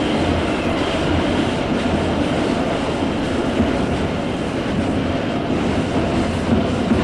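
Train running along the track: a steady, continuous rumble.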